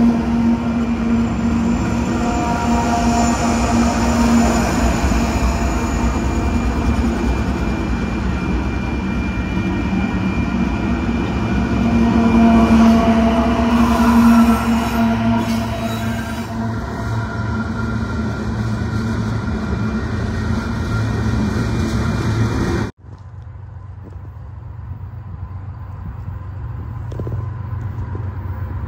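Union Pacific diesel locomotives passing close by at a grade crossing: engines running and steel wheels on the rails, loud and steady. About 23 seconds in it cuts sharply to a much quieter low, steady rumble of a train approaching from a distance, slowly growing louder.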